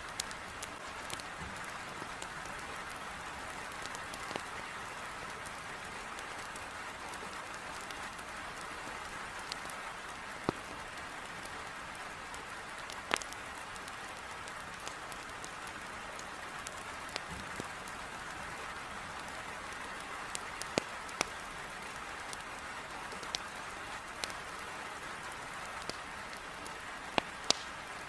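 Heavy rain beating on a window glass, a steady hiss, with a wood fire in a fireplace crackling over it in scattered sharp pops and snaps.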